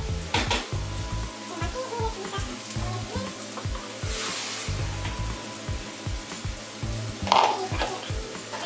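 Ground-beef patties frying in melted butter in a frying pan on low heat, a steady sizzle, with background music over it.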